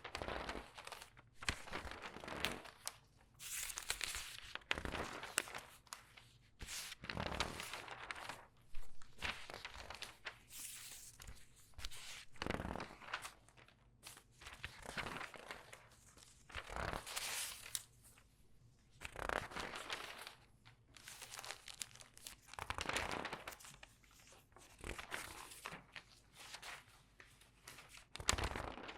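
Newspaper pages turned quickly one after another and squeezed, crinkling and rustling. A dry swish or crumple comes every second or two.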